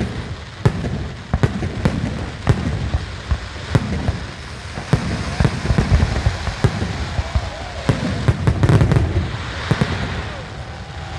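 Fireworks display: a dense run of sharp bangs and cracks, several a second at times, over a continuous low rumble of booming shells.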